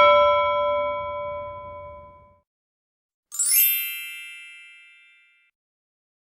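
Two short sound effects. First a single bell ding that rings out over about two seconds. Then, near the middle, a bright sparkling twinkle chime that sweeps down from very high and fades away.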